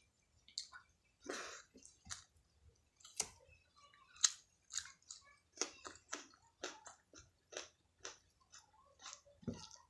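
Close-up eating sounds: a person chewing and biting into soft food, a run of short wet smacks and squelches, several a second.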